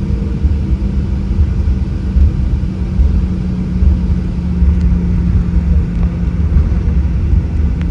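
Boeing 737-800's CFM56 jet engines heard from inside the passenger cabin, with a steady deep rumble and a constant low hum that dips slightly about three seconds in, as the airliner rolls on the ground.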